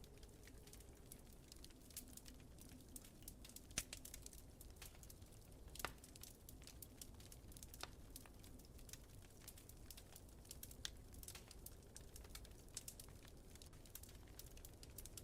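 Wood fire crackling softly: irregular small pops and snaps, with a couple of sharper ones about four and six seconds in, over a faint steady low rumble.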